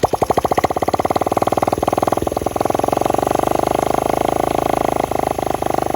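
Honda Monkey/Gorilla Z50J 12 V engine, a small four-stroke single, running just after it has caught. Its quick, even firing pulses settle into a steady idle over the first couple of seconds.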